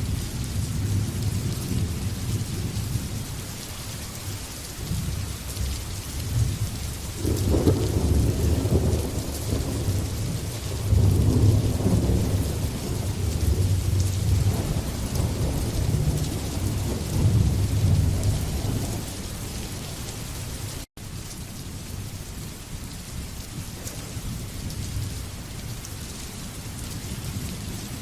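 Steady heavy rain with a long rolling rumble of thunder that swells a quarter of the way in, peaks near the middle and fades out. About three quarters of the way through, the sound cuts out for a split second.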